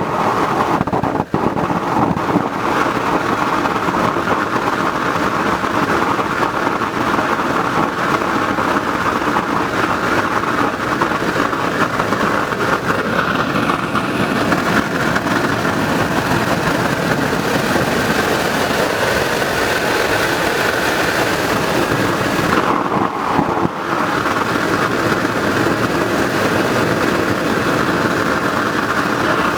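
Waste-oil burner built from an old car muffler, running loudly with its blower on: a steady rushing of burning oil and forced air that dips briefly twice.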